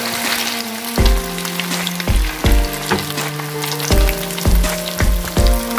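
Cornstarch-coated tofu crackling and sizzling as it deep-fries in hot oil, under background music with a beat.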